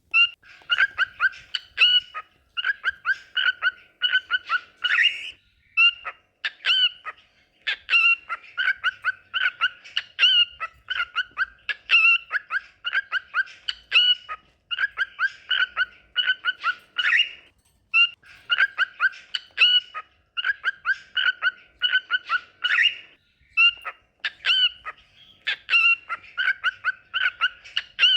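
Cockatiels singing: quick runs of whistled chirps, grouped in phrases of a second or two with short pauses between them.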